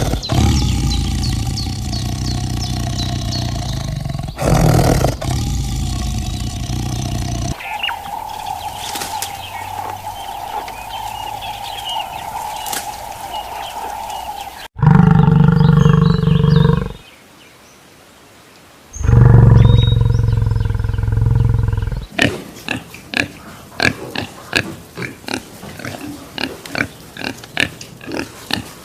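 A sequence of animal calls. The loudest are two long, deep roars of a big cat about halfway through, with a short pause between them. They are followed by a run of short, rapid sounds.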